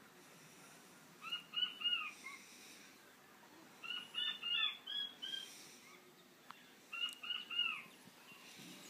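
A bird calling in three short phrases, each of three or four quick, arched chirping notes, the phrases about three seconds apart.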